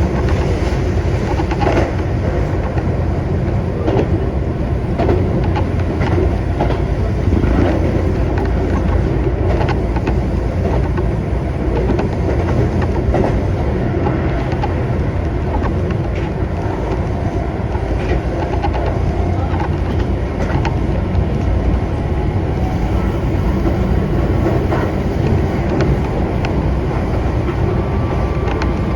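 Keihan electric train running along the line, heard from on board: a steady low rumble of wheels on rail with frequent short clicks and clacks from the track.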